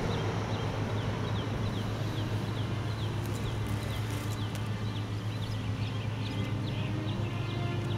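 A small bird repeating short, falling chirps, about two a second, over a steady low hum of outdoor street ambience.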